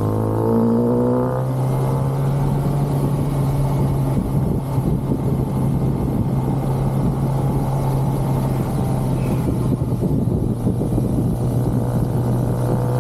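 Stock 2023 Kawasaki ZX-6R's inline-four engine under way, rising in pitch through the first second and a half as it accelerates, then running at steady revs under a dense rushing noise.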